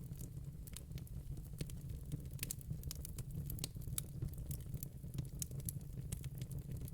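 Wood fire in a fire pit crackling: irregular sharp pops and snaps, several a second, over a steady low rumble.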